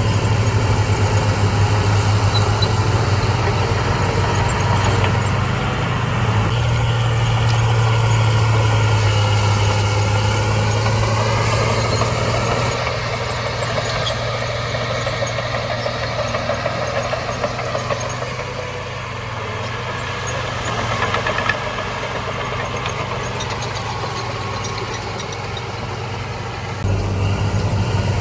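Diesel engine of heavy earthmoving machinery running under varying load, its pitch wavering. It drops back and gets quieter about halfway through, then grows loud again near the end.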